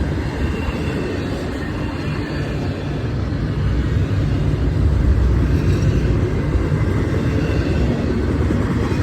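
Intermodal freight train's container well cars rolling slowly past: a steady low rumble of steel wheels on the rails.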